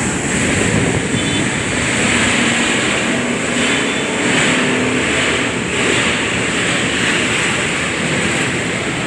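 Yamaha RX-King two-stroke motorcycles running, a loud steady wash of engine noise that swells and eases every second or so.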